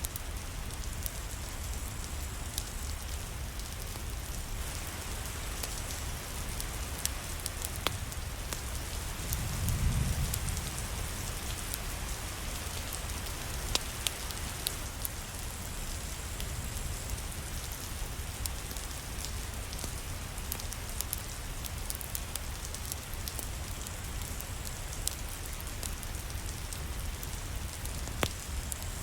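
Steady rain falling, with scattered sharp ticks and pops throughout and a brief low rumble about a third of the way in.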